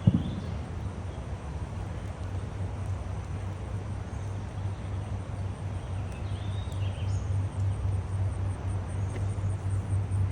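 Outdoor field ambience: a steady low rumble, with a brief thump at the start and a few faint bird chirps around the middle.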